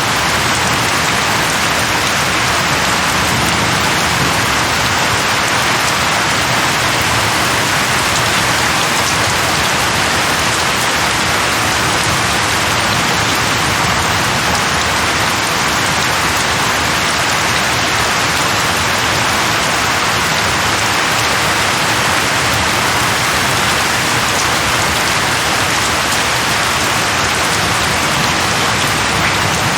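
Steady, even rain falling on a surface, a continuous hiss of raindrops with no change in strength.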